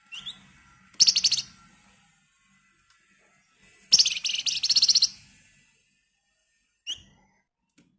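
Flamboyan songbird (Javan fulvetta) singing in emotional ngebren bursts. A short rising chirp is followed by two fast, rattling trills, the second about a second long, and a last short chirp near the end.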